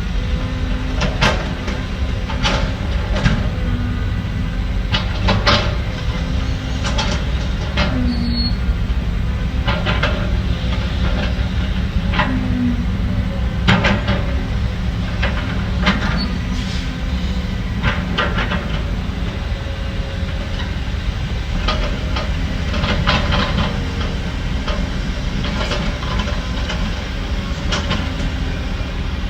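Heavy diesel earthmoving machinery running steadily under a deep rumble, with irregular sharp metal clanks and knocks about once or twice a second.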